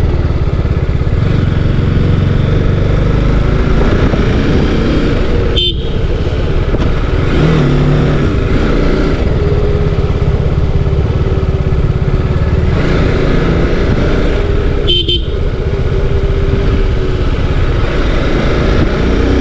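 TVS Apache RR 310's single-cylinder engine running steadily under the rider, with wind and road noise on the microphone. Two brief horn beeps sound about six seconds in and again near fifteen seconds.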